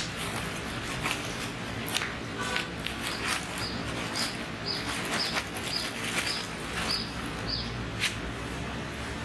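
A bird calling in a run of short high notes, about two a second, over scattered light clicks and rustling.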